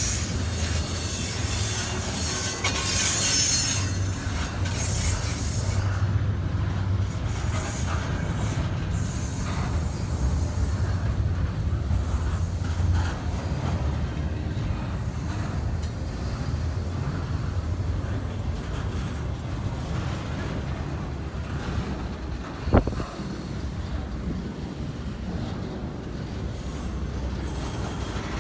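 CSX freight train cars rolling past with a steady low rumble, with high-pitched wheel noise in the first few seconds. A single sharp clank stands out about three-quarters of the way through.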